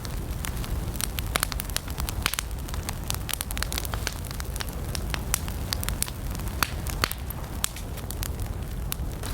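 Wood campfire burning, with frequent irregular sharp crackles and pops over a steady low rumble of the flames.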